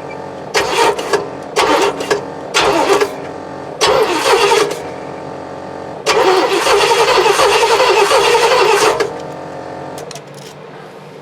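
Starter cranking the Oldsmobile 455 V8 with a compression gauge fitted, in several short bursts and then one longer crank of about three seconds. This is a compression test, and this cylinder reads about 90.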